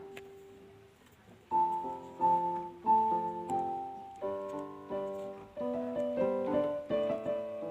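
Background music: a piano plays a gentle melody with chords, notes struck about every half second from about a second and a half in, each ringing and fading.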